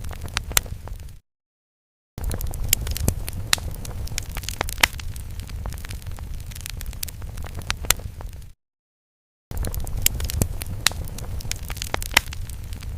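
Fire sound effect: crackling flames with a low rumble and frequent sharp pops. It fades and drops to dead silence twice, for about a second each time, before the crackling starts again.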